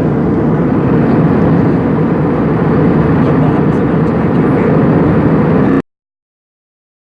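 Steady engine and airflow noise heard inside the cabin of an Airbus A320-200 airliner, cutting off abruptly about six seconds in.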